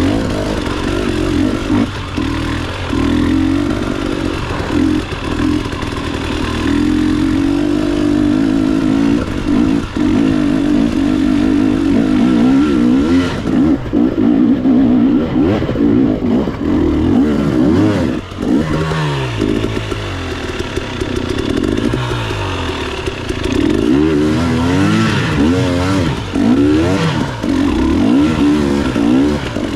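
Motorcycle engines running on the road, with the pitch rising and falling several times in the second half as the throttle opens and closes.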